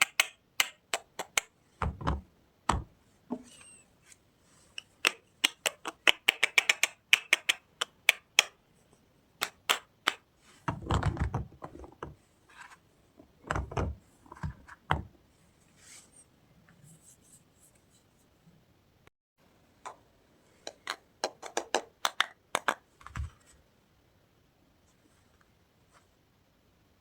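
Soap packaging being handled and unwrapped: irregular crinkling, sharp clicks and scratches, with a few soft thumps, falling quiet near the end.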